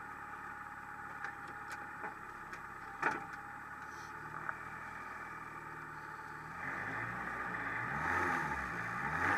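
Renault Clio Ragnotti rally car's engine, heard from inside the cabin, idling quietly while the car stands at a stage start, with a few small clicks and one knock about three seconds in. From about six and a half seconds in the engine is revved, its pitch rising and falling, just before the launch.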